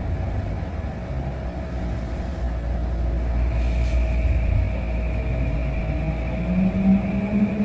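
Vancouver SkyTrain car running between stations, driven by linear induction motors: a steady low rumble with steady whining tones. A higher whine comes in about three seconds in, and a lower hum rises near the end.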